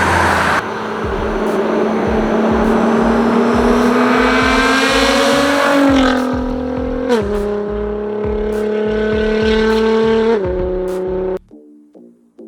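Nissan GT-R with a Linney drag exhaust accelerating hard, the engine note climbing through a long pull, dropping at a gear change about seven seconds in, then climbing again. It cuts off about a second before the end, where quiet music comes in.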